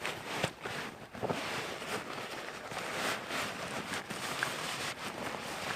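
Rustling of nylon fabric and bag material as a sleeping bag in its dry bag is pulled out from the bottom of a rucksack, in irregular soft scuffs.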